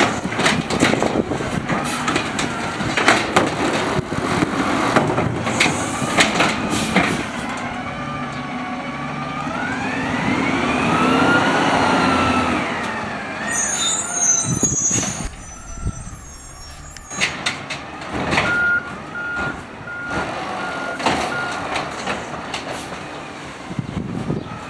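Automated side-loader garbage truck working a curbside pickup with its engine at idle: the cart and arm bang and knock repeatedly, then the hydraulic arm whines, rising and falling in pitch for several seconds. A brief high squeal follows, then a row of about five evenly spaced beeps.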